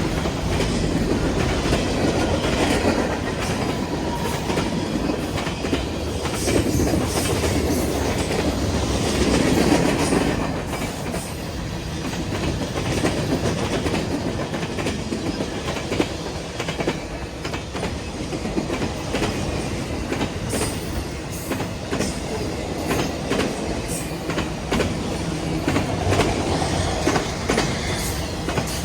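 Train cars rolling past, a steady rumble with the wheels clicking over rail joints throughout.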